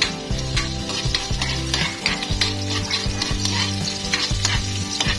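Ginger strips sizzling in hot oil in a wok, with a spatula scraping and tapping the pan in quick repeated strokes as they are stirred.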